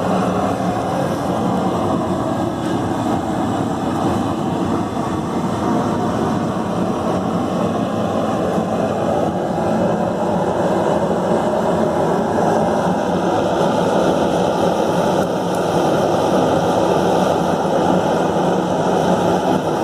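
Homemade propane forge burner firing inside a gas forge, giving a steady roar of burning gas that grows slightly louder in the second half.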